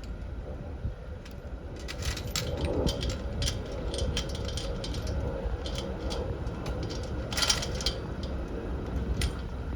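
Scattered light clicks and small clinks of hard objects being handled, with a short cluster about seven and a half seconds in, over a steady low rumble.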